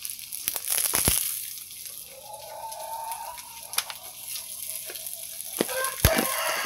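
Oyster mushrooms and fried tofu sizzling in an oiled wok, a steady hiss, with a few sharp knocks and clicks of utensils and a seasoning jar being handled, the loudest about a second in and near the end.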